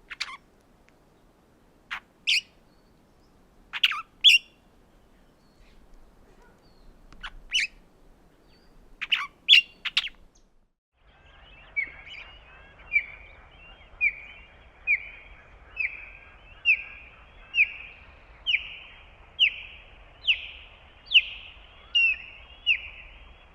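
Bird calls: sharp single chips every second or two, then a break about 11 seconds in, followed by a different bird repeating one short down-slurred note roughly once a second, about a dozen times.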